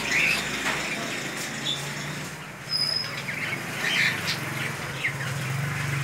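Small caged birds chirping, short scattered calls and whistles, over a steady low hum.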